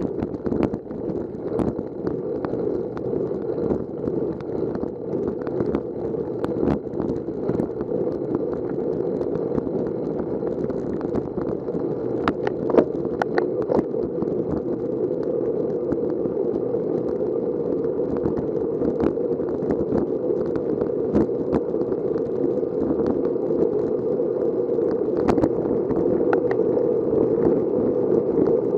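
Steady muffled wind and road noise from a moving bicycle, growing slightly louder, with scattered clicks and rattles from the bike and camera mount over bumps; the sharpest rattle comes about 13 seconds in.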